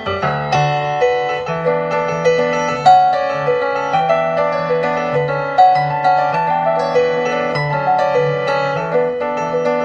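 Piano playing chords and a melody over a held low bass line, with accented chords about three seconds in and again past five and a half seconds.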